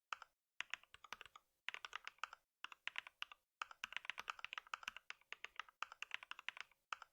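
Computer keyboard typing: quick runs of keystrokes in short bursts with brief pauses between them.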